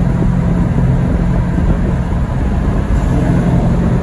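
Straight-piped Dodge Challenger's exhaust running steadily while driving, a loud low engine drone with no break.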